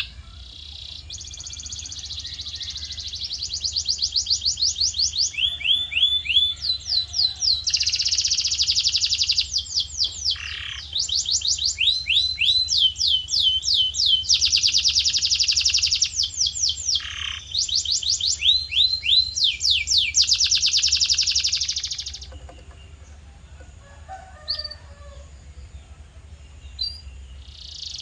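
Male canary singing in fast trills and rolls: long runs of rapidly repeated high notes, phrase after phrase with brief breaks. The song stops about 22 seconds in, leaving a few faint chirps before it starts again near the end. A low steady hum runs underneath.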